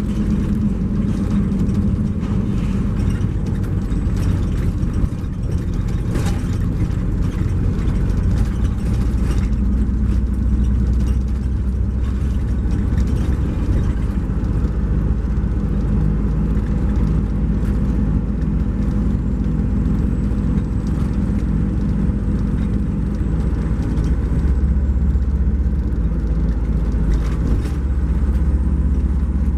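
2012 MCI J4500 coach's Cummins ISX12 diesel engine running under way, a steady low drone with road noise and scattered light rattles; the low drone grows stronger about three-quarters of the way through.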